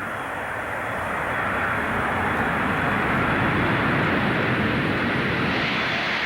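Jet engine noise of a Boeing B-52 bomber's eight Pratt & Whitney engines, a steady rushing sound that swells louder toward the middle.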